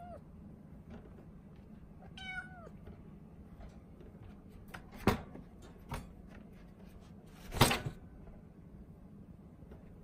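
A Norwegian Forest Cat kitten meowing from inside its cage: a pleading meow, falling in pitch, about two seconds in, the begging call of a kitten wanting to be let out. Two sharp knocks follow about five and six seconds in, then a louder, short knock or rattle near the end.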